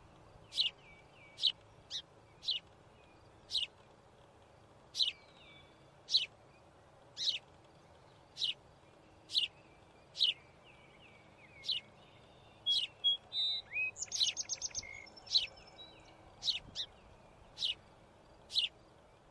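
A bird chirping: short, sharp, high downward chirps about once a second, with a couple of quick trills a little past the middle, over a faint steady hiss.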